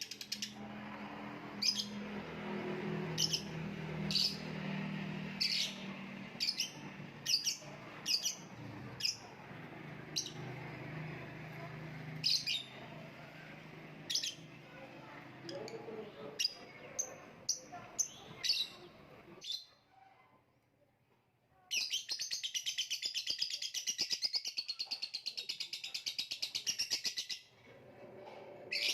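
Lovebird chirping in short, separate high calls, then after a short pause a continuous rapid trill lasting about five seconds.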